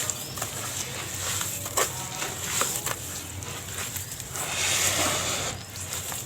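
Molded yellow dirt (sand-cement) shapes crumbling and breaking apart, a gritty crackle with a few sharp snaps. A longer, louder crumble of falling grit comes about four and a half seconds in.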